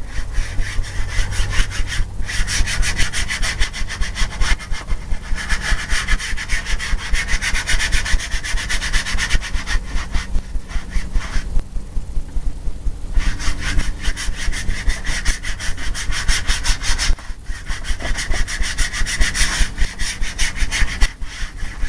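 A 2-inch paint brush scrubbing a thin coat of liquid clear medium into a canvas with quick, rhythmic back-and-forth strokes, several a second. The strokes pause briefly a little past halfway.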